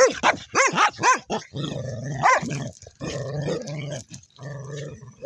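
Dogs playing rough: a quick run of sharp barks in the first second, then stretches of low growling broken by another bark.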